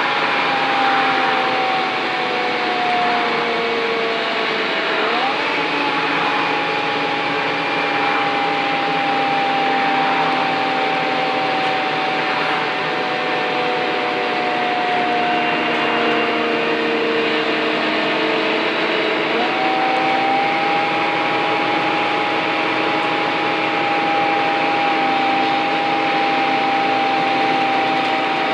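Scania N230UD bus engine thrashing uphill, with the high vacuum-cleaner-like whine known as the 'Hoover' sound. Its pitch slowly sags as the engine labours under load, then jumps sharply back up twice, about five seconds in and again near two-thirds through, as the automatic gearbox changes down.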